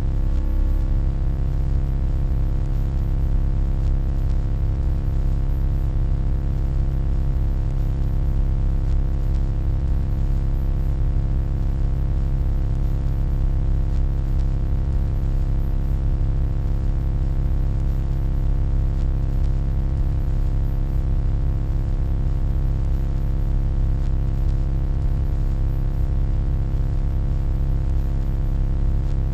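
Steady electronic hum: a strong low rumble under a stack of constant tones, unchanging throughout, with a brief falling sweep about half a second in.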